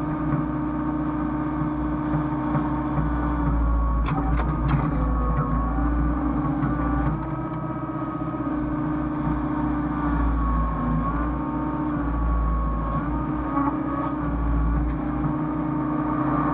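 Hyundai hydraulic excavator running under load, its diesel engine and hydraulics holding a steady hum while the pitch wavers as the load shifts. A few sharp knocks come about four seconds in.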